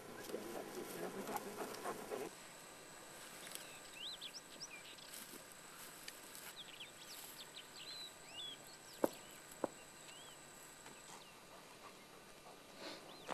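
Faint open-field ambience with small birds chirping in short rising and falling notes, over a thin, steady high tone. Two sharp clicks come about half a second apart just past the middle, and the first two seconds hold a louder rustling.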